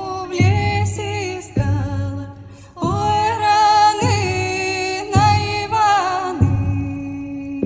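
A woman singing a folk song in long, held notes, with a frame drum struck a steady beat about once every second and a bit beneath the voice.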